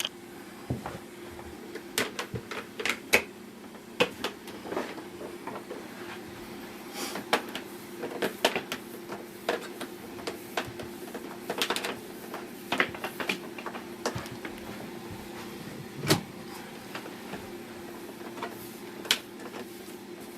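Power cable of a Bissell Cleanview Plus upright vacuum being wound by hand onto its cord hooks: irregular clicks and knocks of the flex and plug against the plastic body, with one sharper knock about three quarters of the way through.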